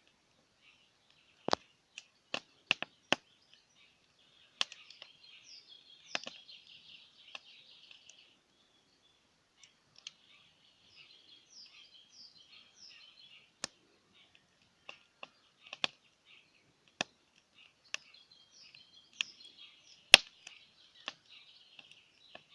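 Wood fire crackling, with irregular sharp pops of burning wood, the loudest about 20 seconds in, over birds chirping continuously.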